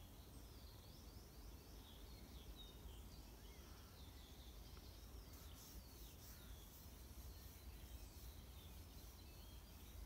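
Near silence: faint, scattered bird chirps over a low steady rumble, with a rapid high ticking from about halfway.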